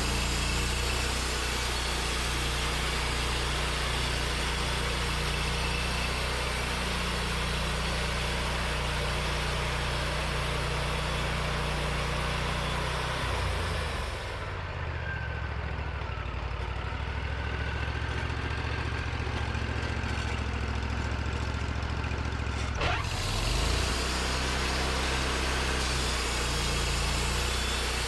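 Portable sawmill's engine running steadily, likely under cutting load. About halfway through, the hiss drops away and the engine settles to a lower idle. Some nine seconds later it revs back up quickly to full running.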